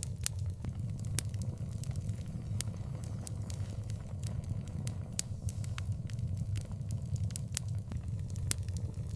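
Wood fire burning in an outdoor fireplace, crackling: sharp, irregular pops and snaps, several a second at times, over a steady low rumble.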